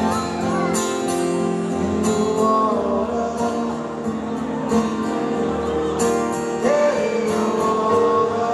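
Live rock band music: an instrumental passage of the ballad, led by strummed acoustic guitar.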